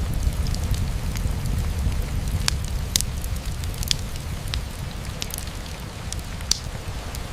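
Rain falling on a window over a crackling wood fire: a steady low rain rumble with sharp, irregular pops and crackles.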